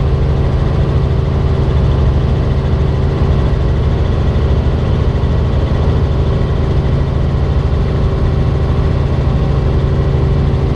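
Robinson R44 Raven II helicopter running, its six-cylinder Lycoming engine and rotor making a steady low drone with no change in pitch or level.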